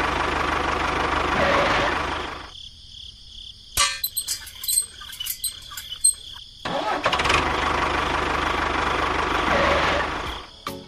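A small engine running in two spells, with a break of about four seconds between them that holds a few sharp metallic clicks and knocks.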